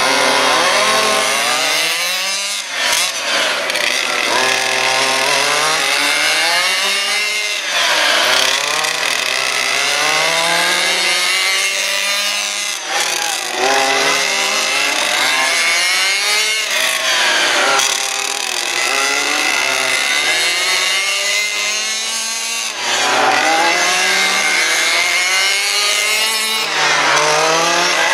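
Small two-stroke petrol engines of 1:5-scale RC cars (23 cc and 30 cc) racing, several at once. They rev up and down repeatedly, their pitch rising and falling every few seconds.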